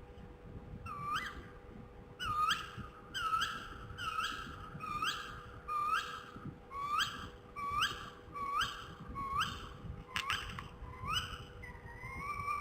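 Tawny owl calling: a run of about a dozen short, sharply rising calls at roughly one and a half per second, then a longer held note near the end.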